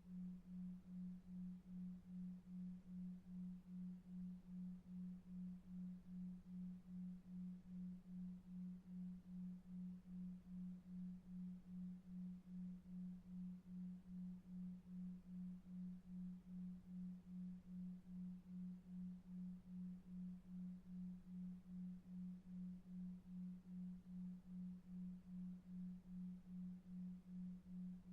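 A low, steady electronic tone pulsing evenly about two and a half times a second: a 2.5 Hz delta-wave beat for sleep. Under it runs a faint bed of brown noise.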